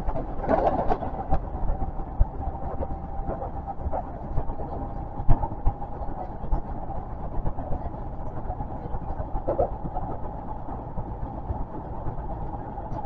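Osaka Metro 400 series electric train running at speed, heard from inside the front cab: a steady rumble of wheels on rail with a few sharp clicks over rail joints and a faint steady tone in the first half. A train on the adjacent track passes in the first second.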